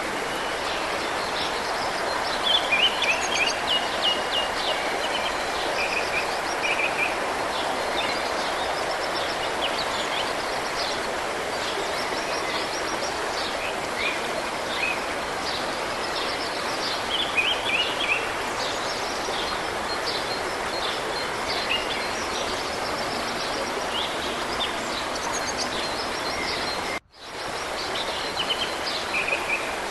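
Steady rush of flowing mountain-river water with many small birds chirping and singing over it. The sound cuts out abruptly for a moment near the end, then returns.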